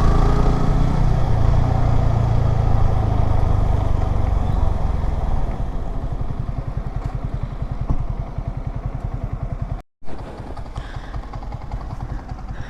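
Motorcycle engine running under road and wind noise, then easing off and settling to an even, low putter at slow speed or idle from about six seconds in. The sound cuts out completely for a moment near ten seconds, then the putter carries on more softly.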